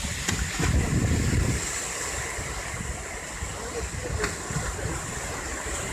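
Wind buffeting the microphone over open sea, with water washing and a few faint clicks.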